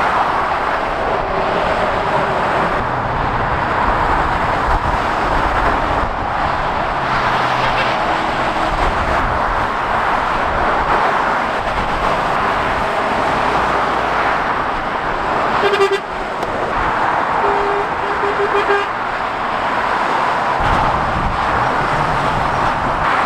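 Steady heavy motorway traffic, lorries and cars passing at speed with tyre roar and engine rumble rising and falling. A few short horn toots sound about two-thirds of the way through.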